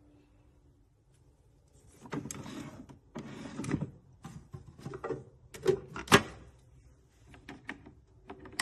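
Handling noises: two stretches of rustling, then a series of sharp clicks and knocks, the loudest about six seconds in.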